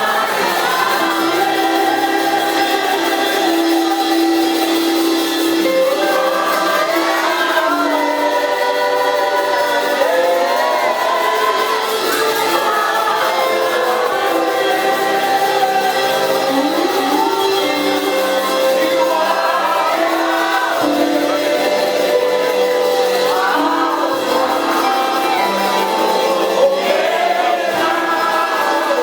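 Gospel praise music with voices singing together, held notes and sliding melodic lines over a continuous backing.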